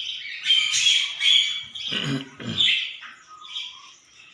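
Budgerigar chattering and squawking in a busy, continuous run of calls, thinning out near the end. A short lower-pitched sound breaks in about two seconds in.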